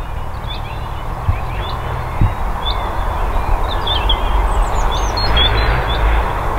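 Small birds chirping, short high calls scattered throughout and bunched a little after the middle, over a steady low rumble.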